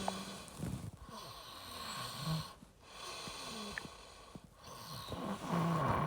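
Breathing-like noise close to the microphone: a rush of hiss broken by short pauses about every two seconds, with a few brief low hums.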